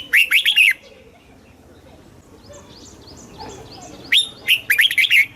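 Red-whiskered bulbul singing: two short, loud phrases of quick falling whistled notes, one at the start and one about four seconds in, with faint chirps between them.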